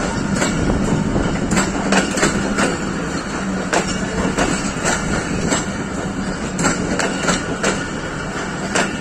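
Passenger coaches rolling past close by, their wheels clacking over the rail joints in an uneven rhythm, one or two clacks a second, over a steady low hum and rumble.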